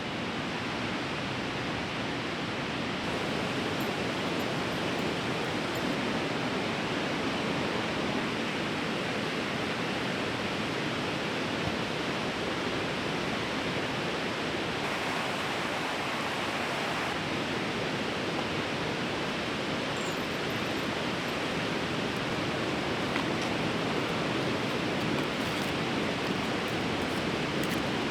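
Steady rushing of a fast-flowing river in spate.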